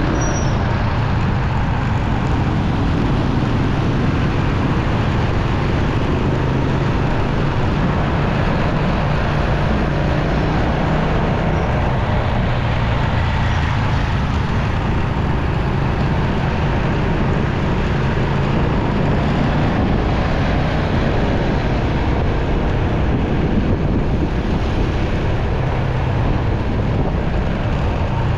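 Motorcycle riding along a road: its engine running steadily under a continuous rush of wind and road noise.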